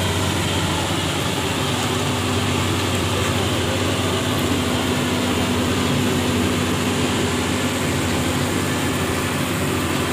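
Heavy tow-truck diesel engines running steadily, a constant low hum under an even rushing noise.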